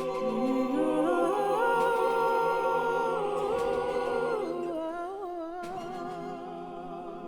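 Wordless choir singing in held chords, the upper voices climbing in steps and then dropping back. Near the end a line with wide vibrato carries on over softer voices.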